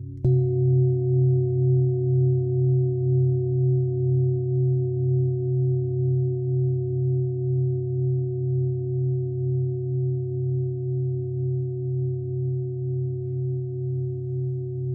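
A singing bowl struck once, then ringing on with several steady tones that waver in a slow pulse, about twice a second, as they slowly fade.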